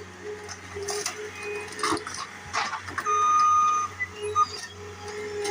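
Skid steer engine running with a steady low hum, under scattered creaks, clicks and short squeals from the demolition. The loudest sound is a held high squeal about three seconds in, lasting just under a second.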